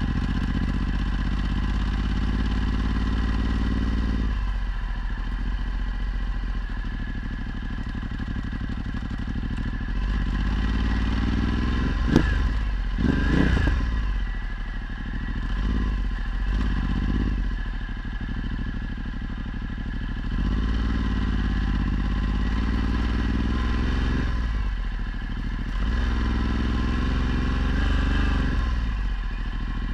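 Ducati Multistrada 1260's V-twin engine through a Termignoni exhaust, ridden with the throttle opening and closing so the engine note rises and falls. There is a sharp knock about twelve seconds in, followed by several quick revs.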